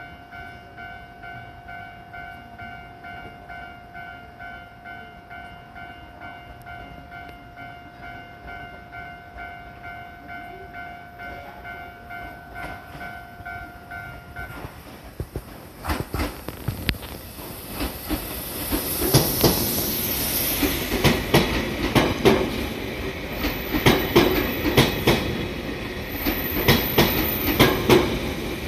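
JR 383 series electric train rolling into the platform. A faint steady tone sounds for the first half and stops about halfway. Then the wheels clack over rail joints and points, growing loud as the cars pass close, with thin high squeals.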